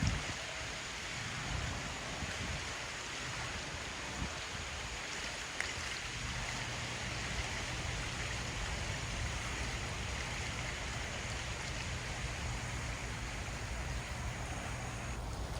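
Steady rushing noise of flowing floodwater and rain, with a short knock right at the start.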